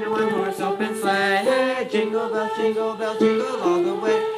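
A choir singing unaccompanied in several-part harmony, holding long notes and moving together from chord to chord.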